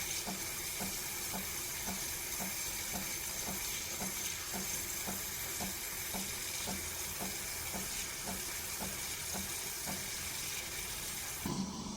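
De'Longhi Dinamica Plus espresso machine running while it makes a drink: a steady hiss over a regular pulsing about three times a second. It stops shortly before the end.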